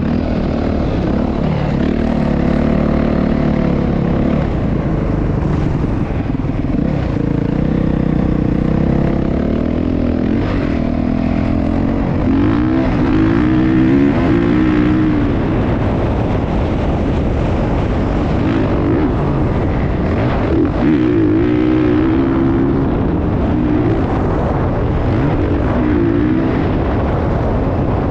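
Motocross bike engine revving, its pitch rising and falling over and over through the gears and throttle changes.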